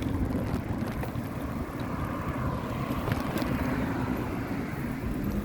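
Wind rushing over the microphone during a bicycle ride, over a steady low rumble of road noise, with a faint whine in the middle.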